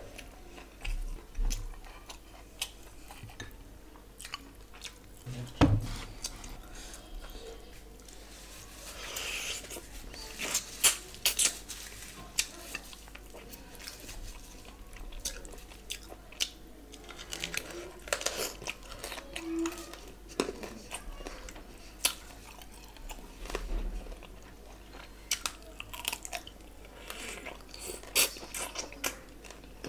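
A person chewing and biting food close to the microphone, eating by hand. Sharp, irregular crunchy clicks and wet mouth sounds are heard throughout.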